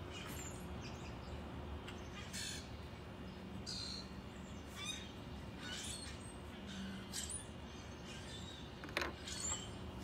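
Backyard birds calling off and on, short high chirps and calls about once a second over a faint steady background.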